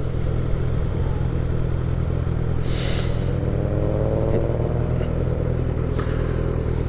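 Motorcycle engine running under way with wind and road noise; a little after halfway through the engine pitch climbs as it accelerates. A brief hiss comes about three seconds in.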